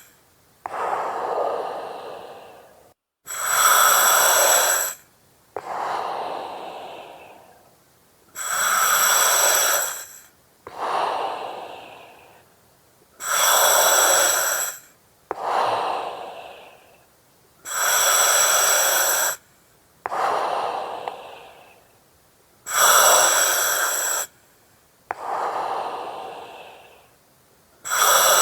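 Slow, even breathing through an oxygen mask. Each breath pairs a loud, steady hiss of about a second with a softer breath that fades away. The pair repeats about every four and a half seconds, six times.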